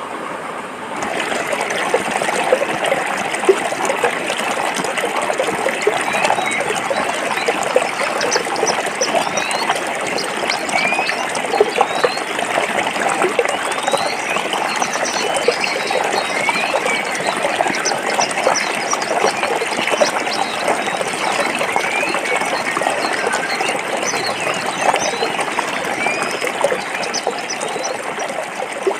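Forest stream running over rocks: a steady, dense babbling and splashing of water.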